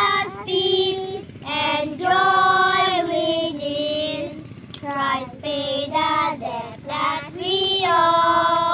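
A high-pitched voice singing a melody in held notes, with short breaks between phrases.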